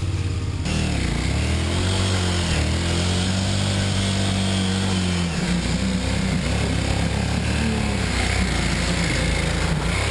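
Trail motorcycle engine revving hard, its pitch rising and falling again and again as the bike is ridden through a muddy bog hole.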